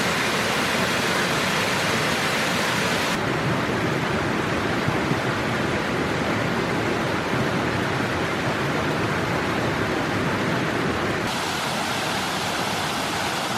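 Steady rushing of a waterfall, a full hiss of falling water; its sound turns duller about three seconds in and brightens again near the end.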